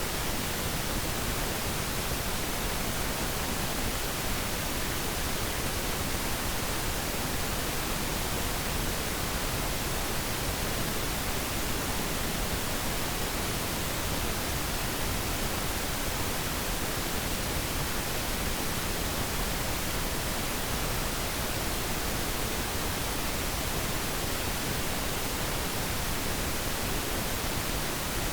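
Pure pink noise: a steady, even hiss with less treble than white noise, unchanging throughout.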